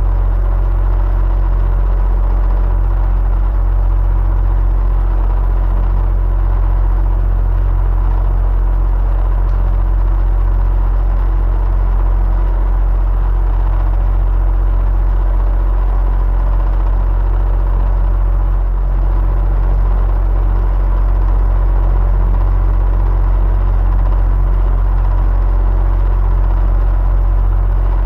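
Electric fan running steadily: a deep, even hum with a rush of air and a few faint steady tones above it, unchanging throughout.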